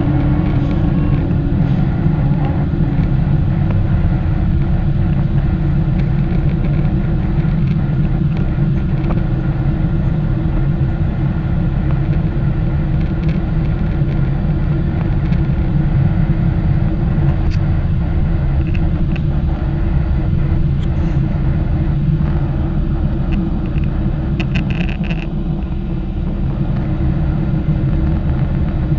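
Boeing 777-300ER's GE90-115B engines at take-off thrust heard from inside the cabin: a loud, steady low rumble.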